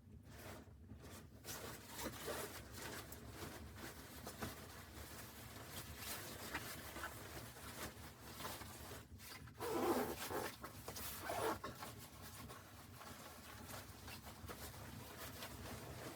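Close, continuous rustling and scraping handling noises, with a louder burst about ten seconds in.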